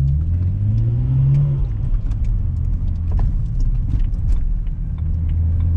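BMW 335i's N54 twin-turbo inline-six, with catless downpipes and a resonator exhaust, accelerating under load: the engine note rises for about a second and a half, drops, and then runs on as a steady low rumble.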